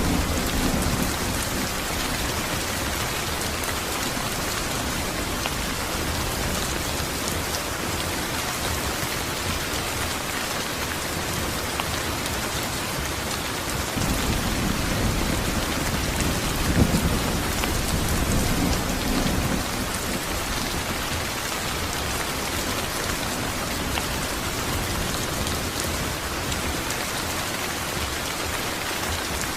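Steady rain falling, with a low rumble of thunder rolling in about halfway through, peaking a few seconds later and fading out.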